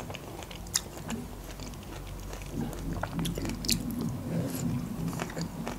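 Close-up biting and chewing of pineapple rings, with short mouth clicks now and then.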